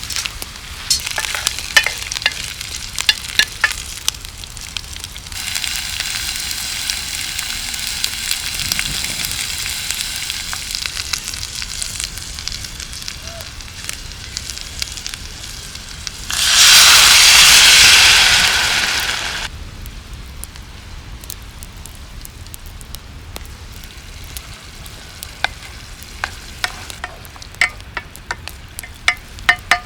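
Food sizzling over a campfire, with the fire crackling. A few seconds in, a steady sizzle sets in; past the middle it swells sharply for about three seconds, then dies back to quiet crackling. Near the end there are several ringing metallic clinks.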